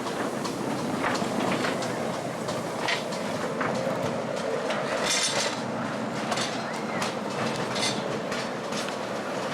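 Miniature railway train running along the track, with its wheels giving a steady run of irregular sharp clicks over the rail joints.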